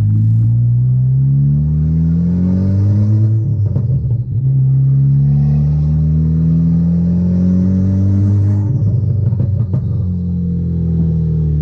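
Built big-turbo MK6 Golf R's turbocharged 2.0-litre four-cylinder accelerating through the gears, its freshly replaced cam timing parts fitted. The engine note climbs, drops at an upshift about three and a half seconds in, and climbs again until near nine seconds, then eases to a steady note.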